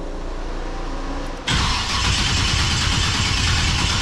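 Starter cranking the LS V8 of a restomod Chevelle SS, turning the engine over strongly but without it catching. A steady, quieter hum comes first, and the loud cranking cuts in suddenly about a second and a half in. The battery is plainly not at fault.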